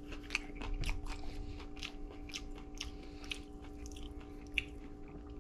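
A person chewing a mouthful of raw striped bass laab with fresh herbs: irregular short clicks and crunches of the mouth and teeth. A steady low hum sits underneath.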